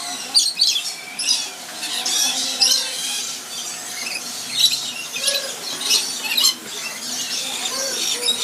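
Many birds chirping and squawking, a dense run of short high calls overlapping one another.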